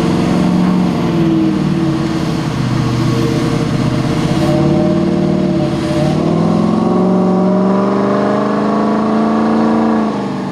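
Diesel pickup truck engine pulling hard under load on a chassis dynamometer. The revs hold and climb, dip at a gear change about five seconds in, climb again, then back off near the end as the run is shut down.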